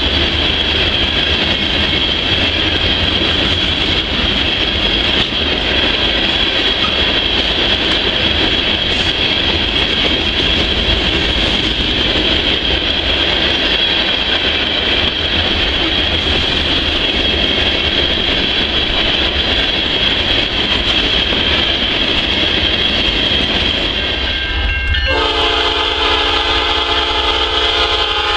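A long string of railroad hopper cars rolling past close by: a steady rush of wheel-on-rail noise. About 25 seconds in, a diesel locomotive's air horn blows a steady chord of several tones, its warning for a grade crossing.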